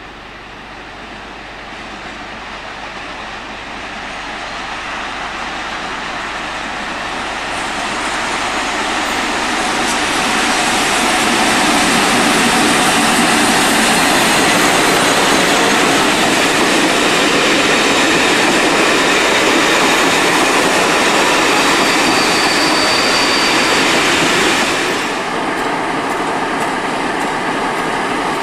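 A Class 47 diesel-hauled train approaches and runs through the station. Its sound grows steadily louder over about ten seconds, holds loud, then falls away abruptly a few seconds before the end.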